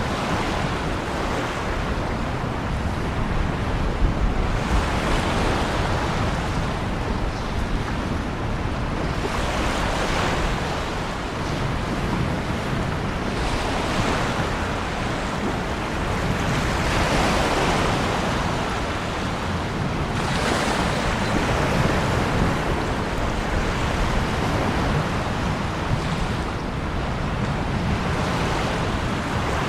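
Ocean waves breaking and washing in, each surge swelling and fading every three to five seconds over a constant hiss of rain.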